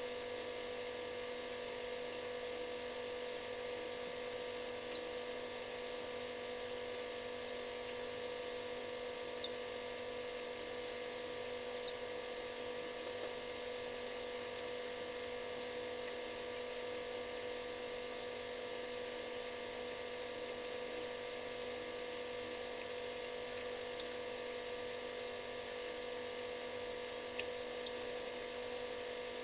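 Refrigerator running: a steady electric hum made of several constant tones, one much stronger than the rest, over a light hiss.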